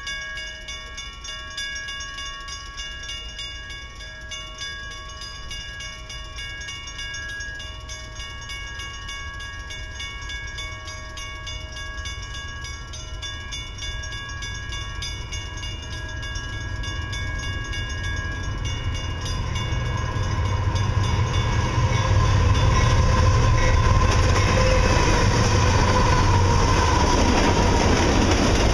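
Freight train led by two GE AC4400CW diesel-electric locomotives approaching and passing close by. The low rumble of engines and wheels grows steadily louder through the second half and is loudest over the last several seconds. Before that, a steady ringing of several high tones with a fast pulse sounds, fading out about two-thirds of the way in.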